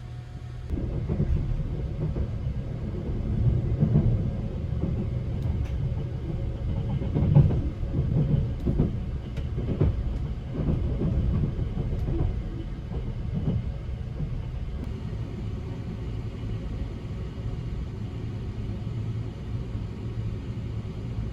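Sunrise Izumo sleeper train (285 series electric train) running along the track: a steady low rumble that swells about a second in, with irregular knocks and clunks from the wheels and carriage.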